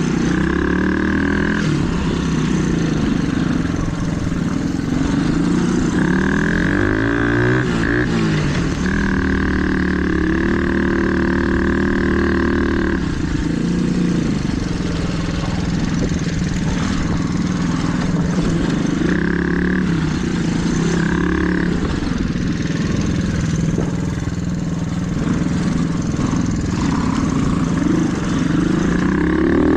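Small-displacement dirt bike engine running on the trail, revving up and down as it is ridden, its pitch rising and falling several times.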